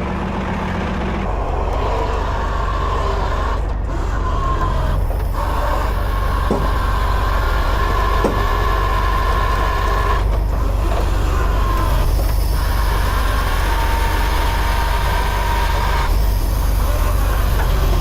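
Heavy tow truck's diesel engine running steadily with a low rumble, with a thin whine that fades in and out several times.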